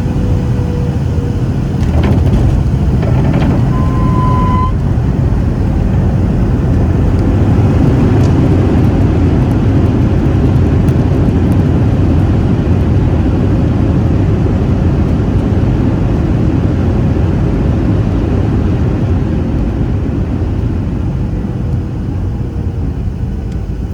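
Boeing 737-800 cabin noise heard from an over-wing seat: the steady rumble of the engines and airframe. A short beep sounds about four seconds in, and the noise eases slightly near the end.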